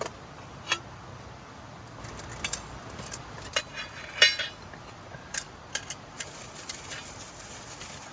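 Dishes and utensils clinking: a series of short, sharp clinks, the loudest one about four seconds in ringing briefly.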